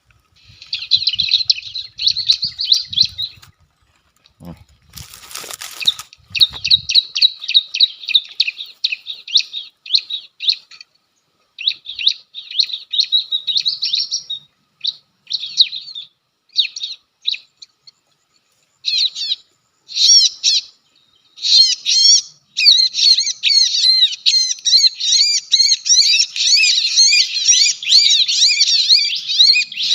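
Bar-winged prinia (ciblek) calling: rapid, high trilled chirps in repeated bursts with short gaps, becoming near-continuous in the last third. A brief noisy rustle about five seconds in.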